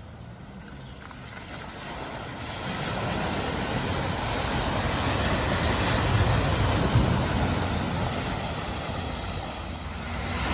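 A vehicle driving through a flooded ford: engine rumble mixed with the rush of water thrown up by the wheels, growing louder over several seconds, with a brief louder splash about seven seconds in, then easing off.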